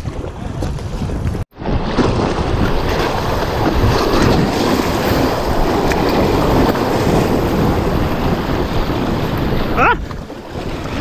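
Whitewater rapids rushing and splashing around an inflatable kayak, with wind buffeting the action-camera microphone. The sound drops out abruptly for a split second about a second and a half in, then the rushing water carries on steadily.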